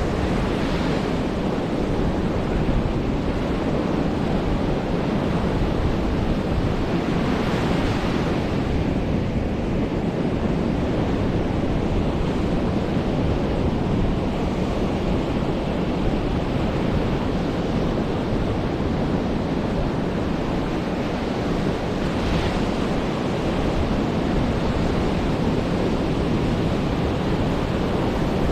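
Ocean surf washing onto a beach: a continuous rushing wash with a few louder breaking waves, one about a second in, one about seven seconds in and one a little past twenty seconds. Wind buffets the microphone underneath.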